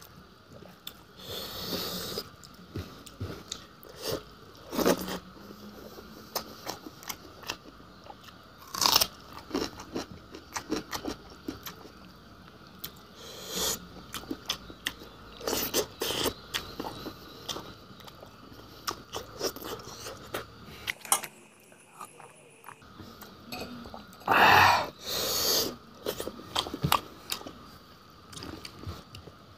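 A person eating a fish boil close to the microphone: irregular chewing, biting and crunching with wet mouth clicks, a few louder bursts among them, and a brief pause a little after two-thirds of the way through.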